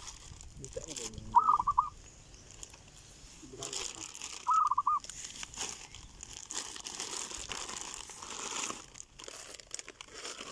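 A bird calls twice, about three seconds apart. Each call is a fainter low note followed by a loud, short, wavering trill of about four quick notes.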